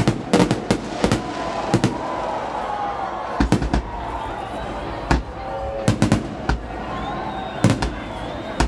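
New Year fireworks display: irregular sharp bangs, some coming in quick pairs, over a continuous background hubbub.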